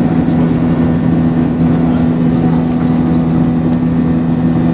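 Airliner's engines running steadily, heard inside the passenger cabin as a constant drone with a low, even hum.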